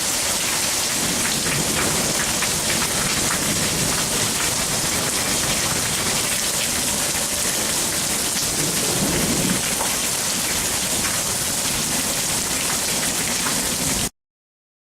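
Heavy rain pouring steadily in a thunderstorm, with a low rumble of thunder swelling about nine seconds in. The sound cuts off suddenly near the end.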